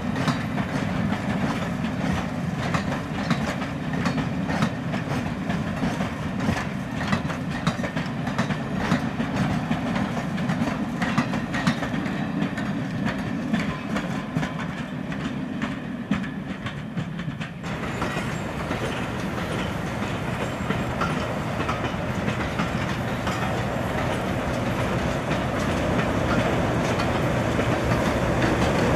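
Train running on rails with a steady rumble and rapid clicking clatter; the sound changes abruptly about two-thirds of the way through to a smoother, steadier running noise.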